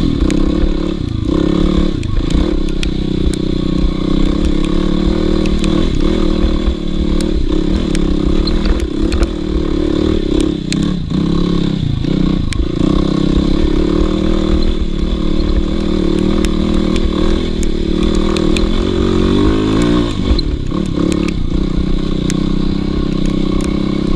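Dirt bike engine running hard under load on a hill climb, its pitch rising and dipping with the throttle, with frequent knocks and clatter from the bike over rough ground.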